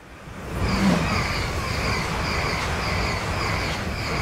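E6 Series Akita Shinkansen Komachi train passing close by: a loud rush of wheels on rail rises about half a second in and holds until the tail goes past near the end. A high hiss pulses about two to three times a second.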